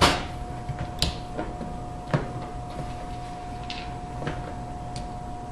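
A few separate clicks and knocks of plastic dishwasher sump parts being handled and pressed into place, the loudest right at the start, over a steady faint high hum.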